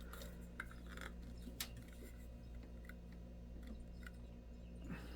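Faint, scattered small clicks and taps from a tool and small parts being handled inside an opened laptop, about half a dozen in all, over a steady low hum.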